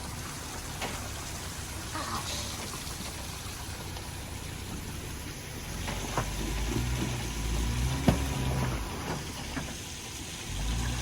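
Steady rain hiss, with an off-road Jeep's engine rumbling low under it and growing louder from about six seconds in as the Jeep crawls at the rock obstacle.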